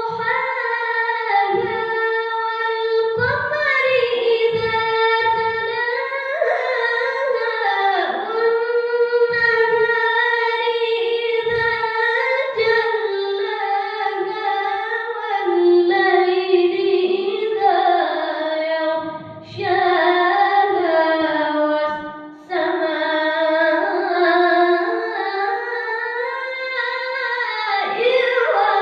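A solo male voice reciting the Qur'an in the melodic qiro'ah (tilawah) style, drawing out long ornamented notes with gliding pitch. It pauses briefly for breath about two-thirds of the way through, twice.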